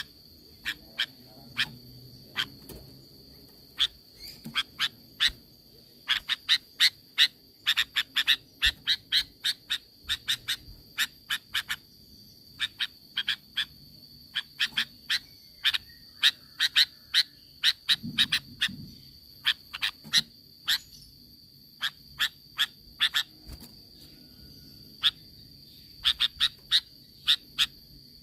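Sooty-headed bulbul giving short, sharp chip notes, some singly and some in quick runs, with gaps of a second or two between groups. A steady high-pitched tone runs underneath.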